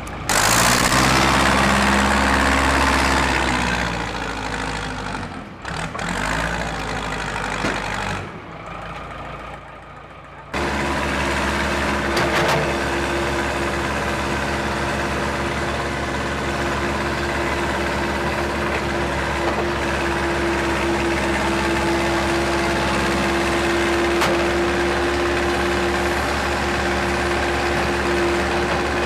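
Heavy diesel engines of road-repair machinery running. The sound is loud for the first few seconds, then dips. About ten seconds in it changes abruptly to a steady engine drone with a constant hum.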